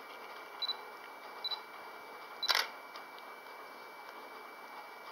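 Two short high beeps from a DSLR confirming focus, then one sharp click of the shutter firing about two and a half seconds in.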